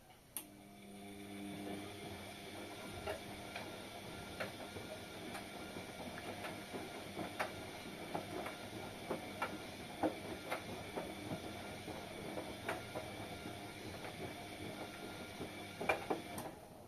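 Washing machine running a wash: the motor turns the drum with a steady hum while the laundry tumbles, with scattered clicks and knocks. It starts with a click and stops abruptly near the end.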